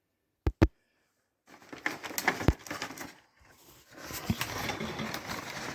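Two sharp clicks, then rustling and clattering as objects are handled, with a short lull about three seconds in.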